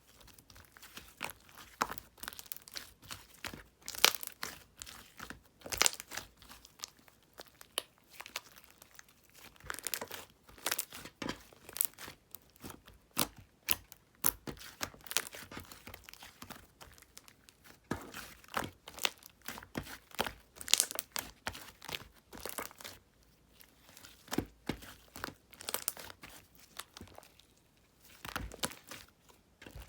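Slime being squeezed and worked by hand, giving dense, irregular crackling and crinkling clicks with a few short pauses.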